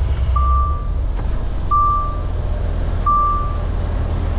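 A reversing alarm beeping, one single-pitch beep roughly every second and a half, over the low steady rumble of a lorry's diesel engine.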